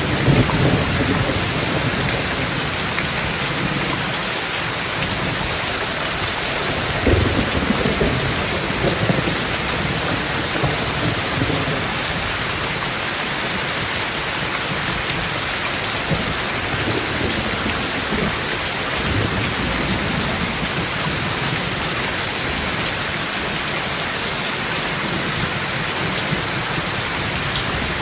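Steady rain falling, with low rolls of thunder near the start and again about seven to nine seconds in, and fainter rumbles later on.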